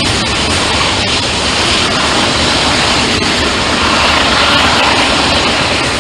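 Freight train rolling past: a steady, loud rush of wheels on rail, with a few faint clicks.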